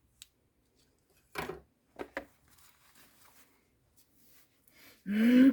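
A handmade paper-and-fabric journal being handled: a faint click, then a few short soft knocks and rustles as it is picked up and its spine looked over. A brief hummed voice comes near the end.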